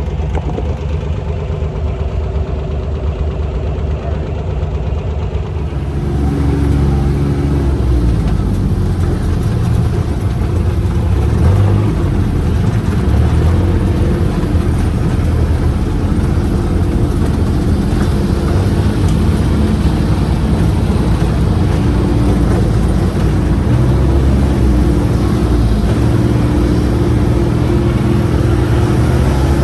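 A UTV's engine running as the side-by-side drives, getting louder about six seconds in.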